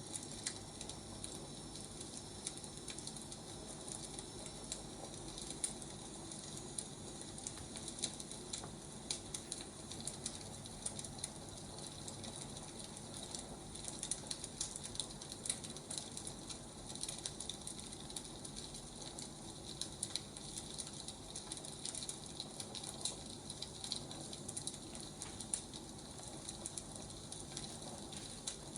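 Wood fire crackling: irregular small pops and snaps over a steady soft hiss.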